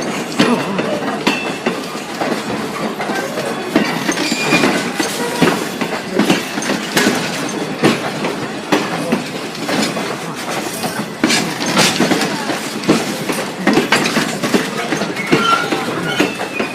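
Passenger train hauled by a Baldwin decapod steam locomotive rolling slowly in, its wheels clacking unevenly over the rail joints, with a few short, faint wheel squeals.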